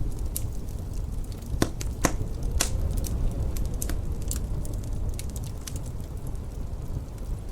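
Wood fire crackling in a fireplace: irregular sharp pops and snaps, three louder ones about one and a half to two and a half seconds in, over a steady low rumble.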